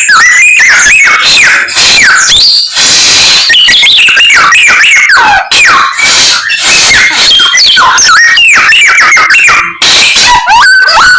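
Samyong songbird singing loudly and without pause, a rapid run of whistled notes and sweeping chirps that jump between pitches, packed with mimicked calls of other birds.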